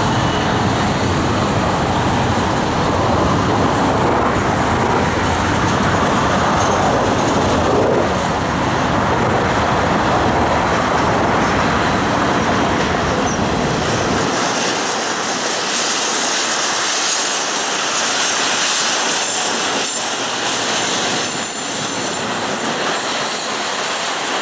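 Double-stack intermodal well cars rolling past on the rails: a steady, loud clatter and rush of steel wheels on track. About fourteen seconds in the deep rumble drops away, leaving a higher, hissing wheel noise.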